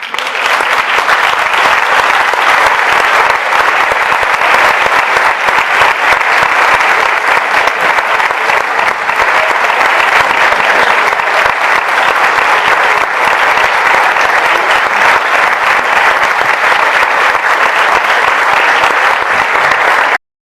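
Concert audience applauding at the end of a wind band piece: dense, steady clapping that cuts off abruptly near the end.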